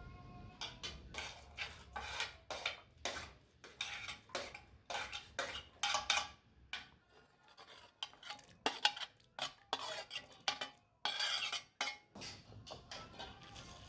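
A utensil stirring and scraping in a cooking pot: a quick, uneven series of clinks and scrapes, about two a second, with a longer scrape about eleven seconds in.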